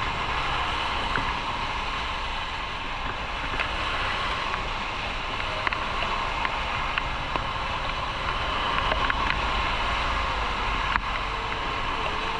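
Motorcycle under way: a steady rush of wind noise over the microphone mixed with engine and road noise, with a few faint ticks.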